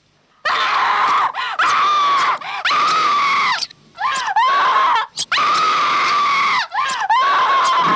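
A woman screaming in terror: a string of about six long, high, piercing screams, each held and then breaking with a swoop in pitch before the next.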